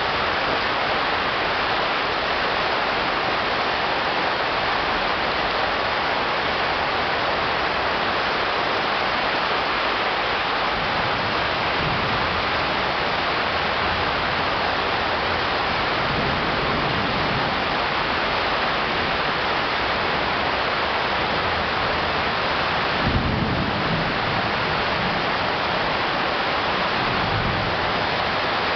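Heavy tropical rain pouring steadily in a thunderstorm, with a few low rumbles, the strongest about 23 seconds in.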